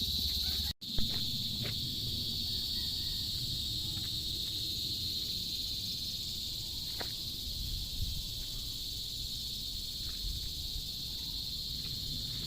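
Steady high-pitched chirping of an insect chorus, running without pause over a low outdoor rumble. The sound cuts out for an instant just under a second in.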